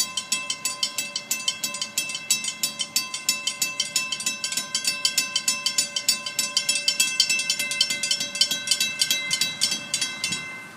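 Railroad grade-crossing warning bell ringing with rapid, even strikes that ring on, warning that a train is approaching. It stops near the end.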